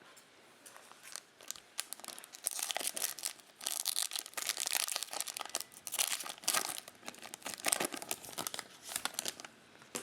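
A trading-card pack wrapper being torn open and crinkled: dense crackling and tearing starting about two seconds in, dying away just before the end.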